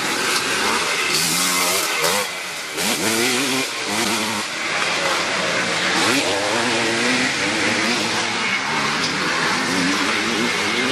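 Several classic motocross bikes racing, their engines overlapping and revving up and down through the gears, with rising sweeps about two to three seconds in and again about six seconds in.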